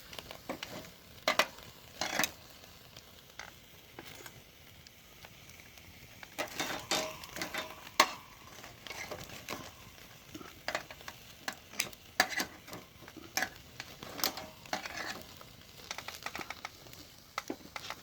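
Food sizzling over a wood fire, with many short clinks and taps of metal utensils on cookware scattered throughout, some ringing briefly.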